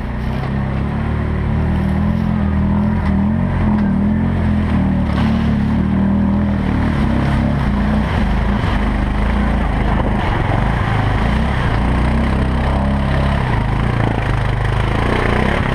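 4x4 ATV engine running steadily while under way, with a constant rushing noise over it.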